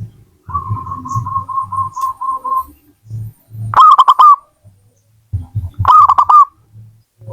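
Zebra dove (perkutut) cooing: a quick run of about a dozen short even notes, then two loud phrases of a few rolling coos each, about four and six seconds in. Low dull thuds are heard between the calls.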